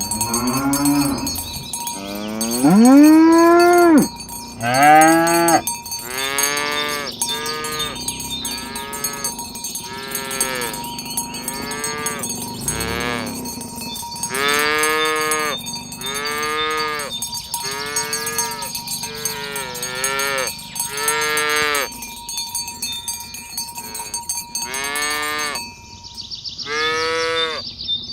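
A herd of cattle mooing over and over, many short calls about one a second, with a longer, louder moo rising in pitch about three seconds in.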